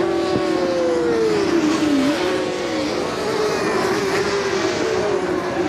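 Several 400 cc supersport racing motorcycles running at race speed. Their engines rev up and drop back in pitch with gear changes, the notes of different bikes overlapping.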